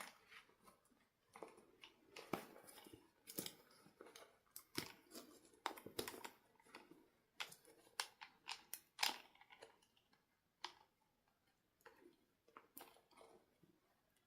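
Faint handling sounds of small objects: a run of irregular sharp clicks and short scraping rustles, thinning out over the last few seconds.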